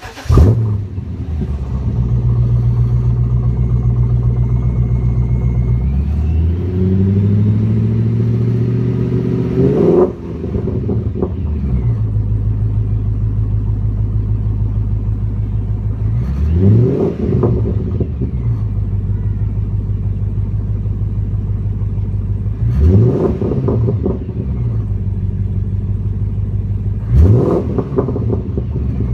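BMW 645ci's 4.4-litre V8 through a stainless steel quad exhaust. It catches with a loud flare of revs at the start, then idles steadily. About six seconds in it is revved slowly up and dropped back sharply near ten seconds, then blipped quickly three more times, settling to idle between each.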